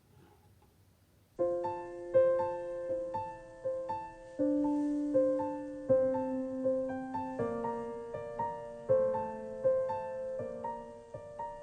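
Near silence for about a second, then gentle background piano music with notes struck about twice a second.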